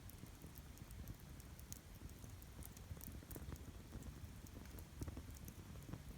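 Wood campfire crackling: many small, irregular pops and snaps over a low, steady rumble.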